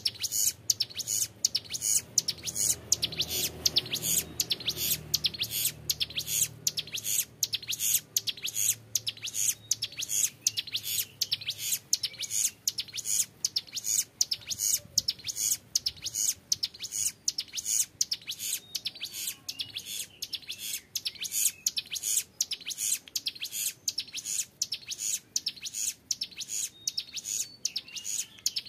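Young male ciblek gunung (hill prinia) singing continuously in its 'ngebren' style: a long, unbroken run of sharp, high-pitched notes repeated a few times a second, clear and rapid.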